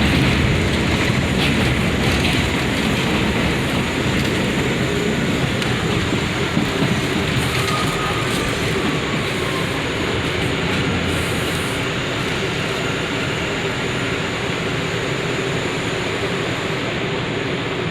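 R179 subway train running on the rails, heard from inside the car: a steady, loud rumble and rail noise that eases slightly in level over the stretch.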